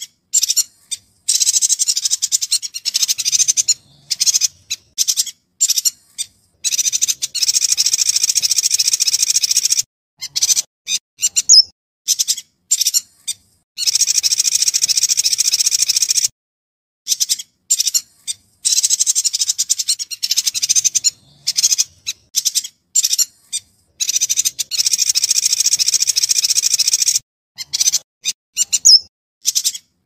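Yuhina singing: long runs of high, fast chirping lasting a few seconds each, with short calls between them, each run stopping abruptly into silence.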